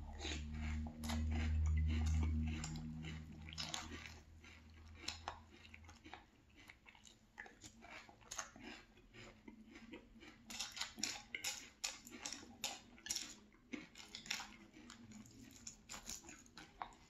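Chewing and crunching a mouthful of frosted cornflake cereal in milk, with many short crisp crackles. A low hummed "mmm" of enjoyment runs through the first three or so seconds, and near the end the spoon stirs in the glass bowl.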